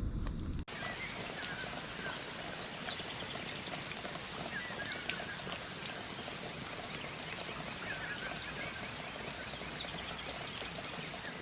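Steady outdoor ambience: an even hiss like rain or running water, with a steady high-pitched whine, scattered light clicks and a few faint chirps. It begins abruptly about half a second in.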